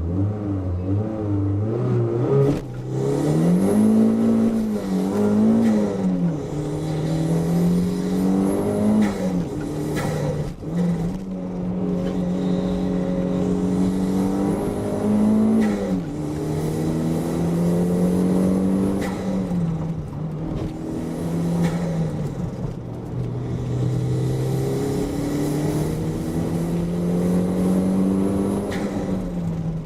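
Toyota MR2 engine driven hard, revving up and dropping back again and again as the car accelerates, shifts and brakes through the corners.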